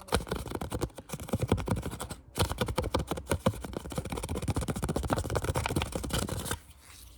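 Fast ASMR fingertip tapping and scratching close to the microphone: a dense flurry of quick taps and scrapes, with a brief pause about two and a half seconds in, stopping suddenly near the end.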